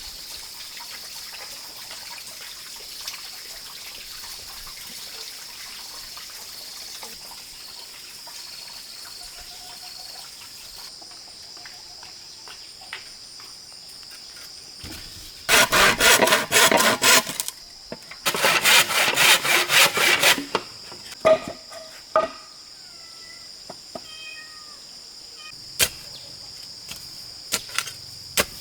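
Insects keep up a steady high-pitched drone throughout. About halfway through, two loud, fast, rasping bursts of about two seconds each break in, followed by a few short chirps and light clicks.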